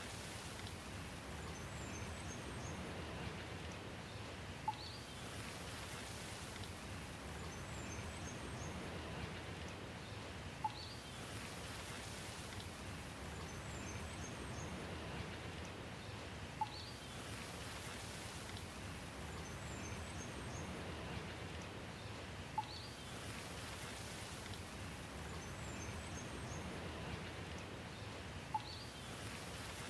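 Steady rain hiss with a short bird chirp and a sharp click repeating exactly every six seconds, as in a looped recording.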